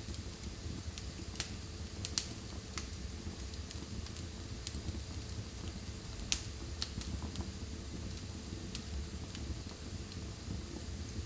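Wood fire burning in a fireplace. A low steady rumble runs under a few scattered sharp crackles and pops, the loudest about six seconds in.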